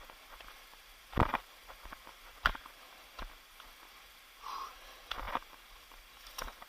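Footsteps of a hiker on a trail: irregular sharp steps, about one a second.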